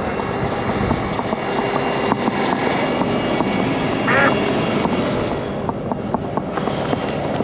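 Heavy truck diesel engines running steadily as a wrecked semi is pulled around during a recovery, with a short squeak about four seconds in.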